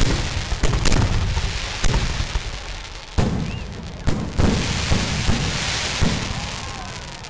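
Fireworks going off: a run of sharp bangs and deeper booms, with two spells of crackling hiss between them. The bangs are loudest near the start and again a little after three seconds, and the whole thing dies away toward the end.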